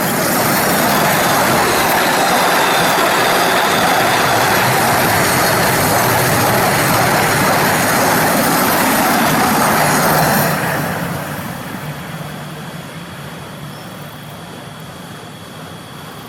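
A train running past at close range: steel wheels on the rails, loud and steady for about ten seconds, then dropping off and dying away as it moves off.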